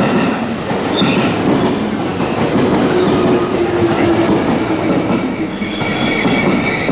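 Electric commuter train moving along the platform, its wheels clattering over the rail joints in a loud, steady run. A high steady squeal joins in near the end.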